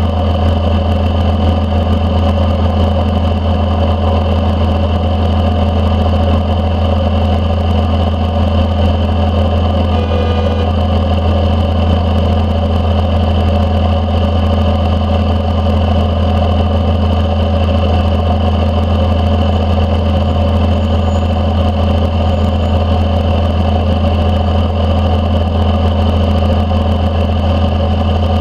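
1992 Dodge D350's 12-valve Cummins inline-six turbo diesel, straight-piped through a 5-inch stack, running at a steady engine speed with no revving.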